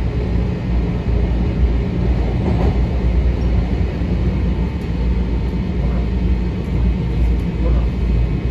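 Inside a Metro-North M7 electric commuter railcar: a steady low rumble and hum of the train, with a faint steady tone in the middle.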